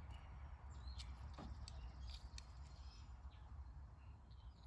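Near silence: a faint steady low hum with a few light clicks and faint high chirps.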